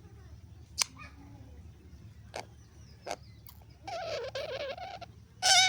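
Green pet parrot calling: a few sharp clicks, then a wavering, pitched call lasting about a second, and a louder, shorter call near the end.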